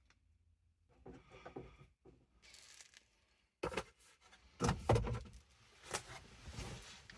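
Irregular knocks, clicks and rustling of things being handled, growing louder in the second half.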